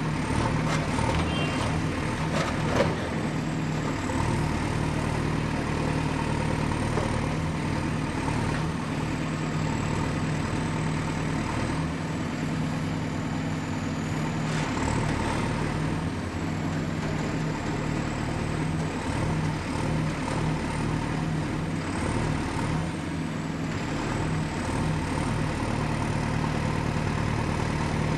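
Excavator's diesel engine running steadily at work, with a faint high whine that dips and rises. A few metallic knocks come in the first three seconds, the sharpest about three seconds in.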